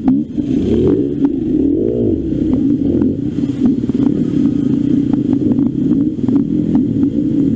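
Trail motorcycle engine running on the move, its pitch rising and falling once about two seconds in, with frequent short knocks and clatters over it.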